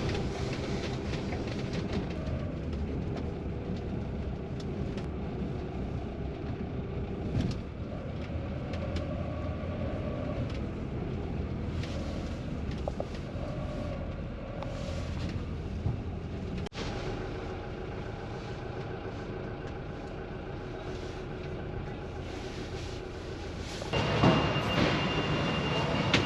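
A steady low mechanical rumble with scattered faint clicks and knocks, growing louder about two seconds before the end with a thin high whine over it.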